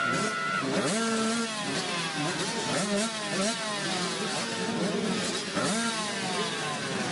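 Several motorcycle engines revving hard and accelerating together, their pitch repeatedly climbing and dropping back as they run up through the gears, with fresh surges about a second in and again near the end.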